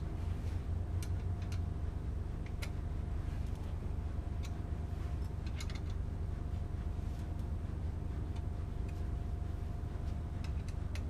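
Scattered light metallic clicks of hand tools working the exhaust clamp bolts on a motorcycle silencer, a few at a time with gaps between, over a steady low background hum.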